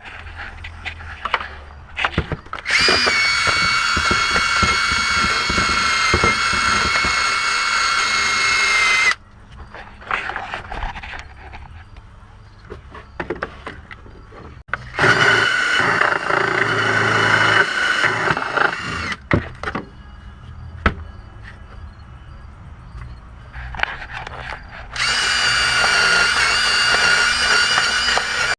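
Electric drill-type power tool spinning in three long runs of about four to six seconds each, a steady whine, with clicks and knocks of tools and parts between the runs.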